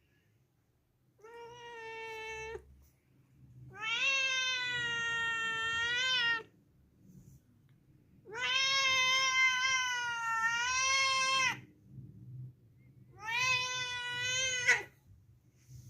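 A cat meowing four times in long, drawn-out calls, each lasting about one and a half to three and a half seconds; the first call is quieter than the rest.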